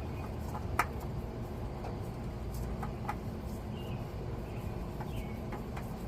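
New oil filter being threaded onto its mount by hand: a few light clicks and taps, one sharper click about a second in, over a steady low background hum.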